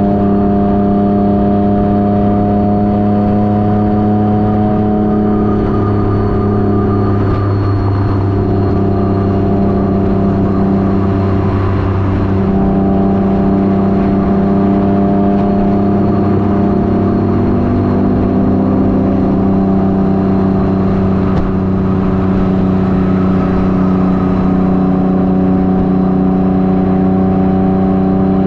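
Motorcycle engine and exhaust running at a steady cruise, the pitch easing up and down a little a few times as the throttle changes.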